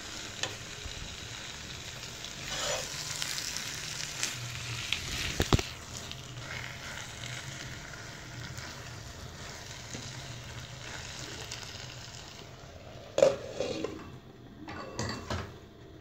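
Chicken and vegetables sizzling in a hot non-stick pan as a silicone spatula stirs them, with a few sharp taps. Near the end a loud knock and rattle as a glass lid goes onto the pan, after which the sizzling is quieter and muffled.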